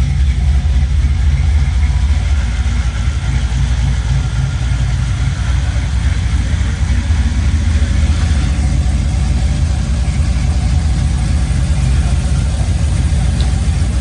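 Aluminum 6.0-litre LS V8 idling steadily with a little chop from its aftermarket cam, warming up after its first start.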